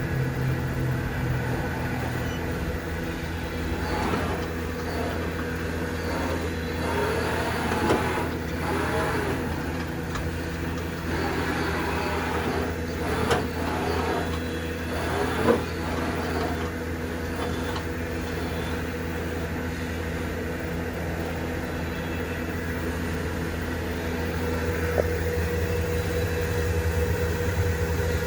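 Southwestern Industries TRAK 2OP CNC mill running, with a steady electric hum. Over it come shifting, gliding whirs and short surges from the spindle and axis drives, and two sharp clicks at about 13 and 15 seconds.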